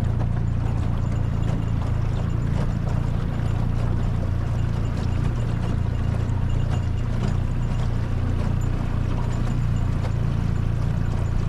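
Small boat's outboard motor running steadily at low speed, with faint irregular clicks and knocks over it.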